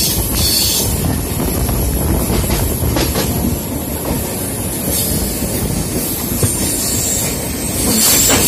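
Indian express train running at speed, heard from aboard a moving coach: a steady rumble of wheels on rail with a few clicks over rail joints. Near the end it gets louder as a parallel train's coaches pass close alongside.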